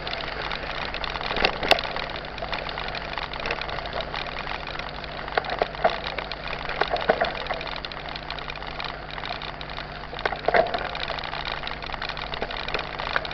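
Mountain bike ridden over a dirt and gravel trail: steady rolling noise from the tyres, broken by short crackles and rattles as they hit stones and twigs, with a few louder knocks about 1.5, 6 to 7 and 10.5 seconds in.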